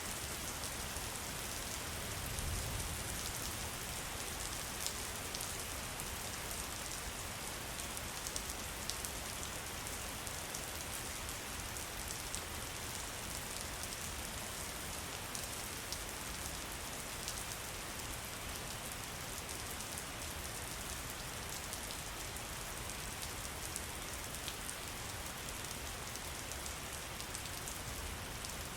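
Steady rain falling on a surface, a continuous hiss dotted with many small drop ticks, with a brief low rumble about two seconds in.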